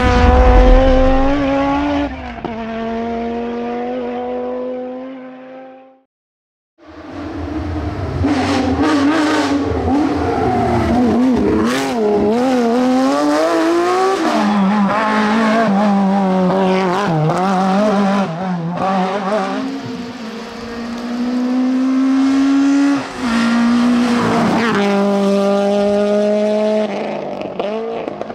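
Rally cars running flat out on a closed stage: an engine holds a steady note and fades away, then after a cut an engine revs hard, its pitch rising and falling repeatedly with gear changes and throttle lifts, with sharp cracks in among it.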